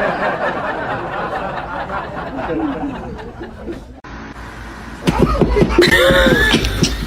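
People laughing. After a cut, a louder noisy stretch follows, with a rising-and-falling cry near the end.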